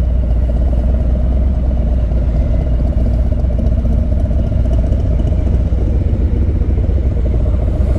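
V-twin motorcycle engine running steadily with a deep low rumble, with no revving.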